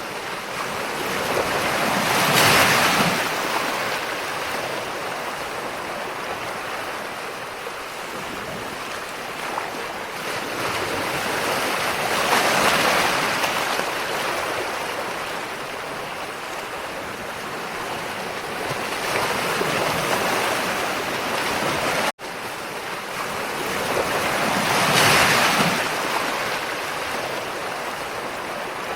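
Ocean waves breaking and washing, a steady rushing that swells to a louder surge four times, at uneven intervals of several seconds. The sound cuts out for a split second about three-quarters of the way through.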